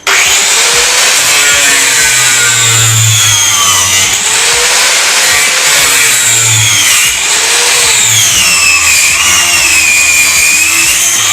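Grinder cutting into the casing of a car TV screen. It starts suddenly and runs loud and steady, its high whine sagging and recovering in pitch as the disc bites.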